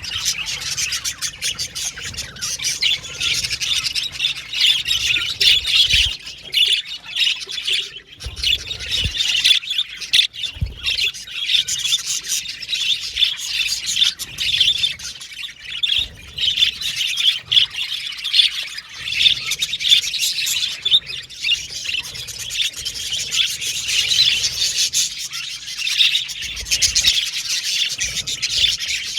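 Several budgerigars chirping and chattering at once, a continuous busy warble of overlapping high calls with occasional squawks.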